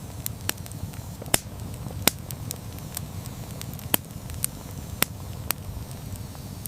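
Wood campfire burning, with a steady low rumble of flames and irregular sharp crackles and pops from the burning logs, the loudest pops about a second and a half and two seconds in.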